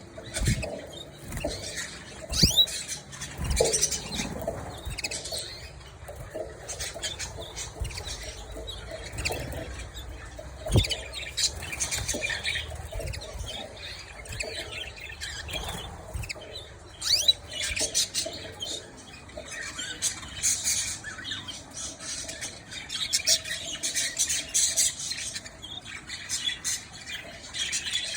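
Pet canaries fluttering their wings and chirping, with short high cheeps coming and going throughout. A few sharp knocks fall in the first half.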